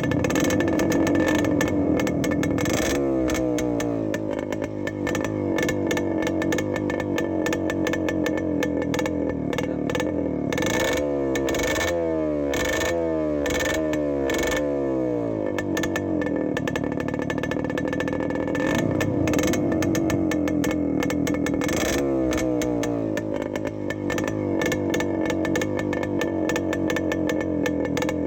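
Yamaha RX100's two-stroke single-cylinder engine running through an aftermarket exhaust pipe while the motorcycle is ridden, the revs rising and falling again and again, most busily about halfway through.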